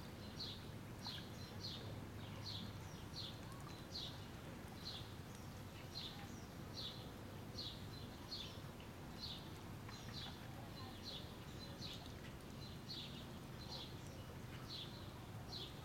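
A small bird repeating a short, high chirp that slurs downward, about one and a half times a second, over a faint low steady background noise.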